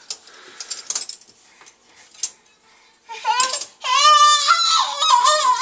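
A few faint clicks and clinks for the first three seconds, then a toddler's loud, wavering, angry cry that carries on to the end.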